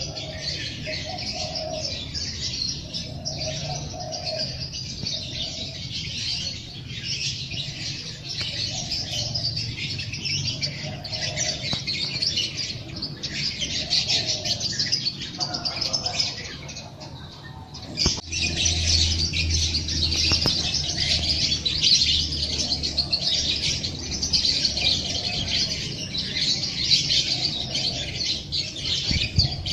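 A dense chorus of small songbirds chirping and twittering continuously, over a dove cooing low in a steady repeating rhythm. The sound dips briefly a little past halfway, then comes back in abruptly.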